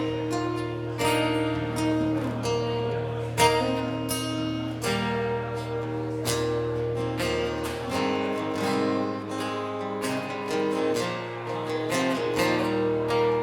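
Two acoustic guitars playing the instrumental intro of a song, strummed chords ringing with picked notes over a steady low bass note, no singing yet.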